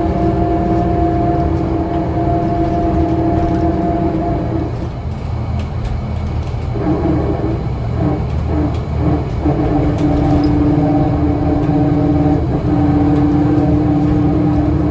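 Scania L94UA city bus running, its engine and drivetrain giving a steady droning hum. The hum drops away about a third of the way through, returns in short stutters, then settles back to a steady drone.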